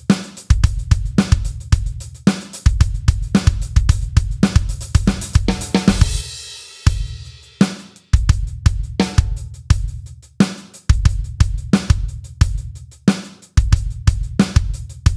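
Drum kit playing a steady beat-pattern groove with hi-hat, snare and bass drum. About six seconds in a cymbal crash rings out and the beat breaks off briefly before the groove picks up again.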